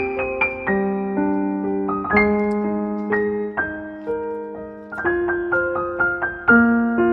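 Background music: a slow piano melody, notes struck about every half second and left to ring.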